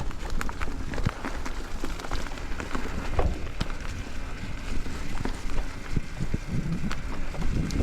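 Mountain bike rolling along a forest trail: tyres crackling over the ground with many small clicks and rattles, over a steady low rumble.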